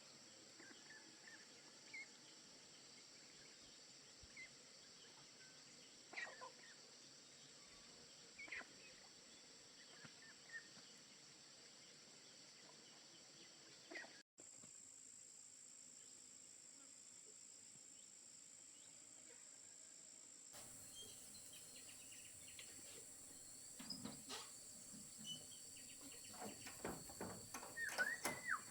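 Faint forest ambience: a steady high-pitched insect drone with scattered faint clicks. A few soft knocks and brief bird chirps come near the end.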